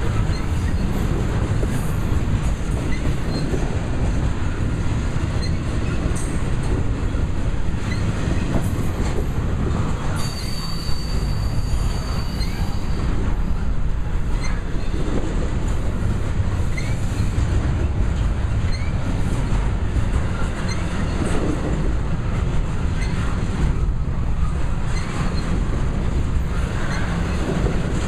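Double-stack container well cars rolling past at close range: a steady rumble of steel wheels on the rails, with a high wheel squeal held for a few seconds near the middle.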